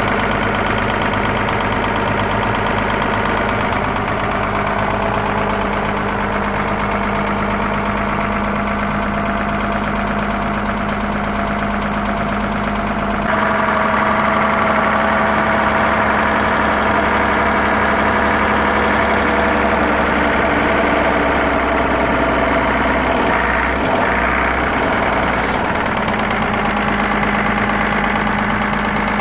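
Leyland Panther bus's horizontal six-cylinder diesel engine idling steadily after a cold start. About halfway through its sound turns slightly louder and brighter, and it settles back near the end.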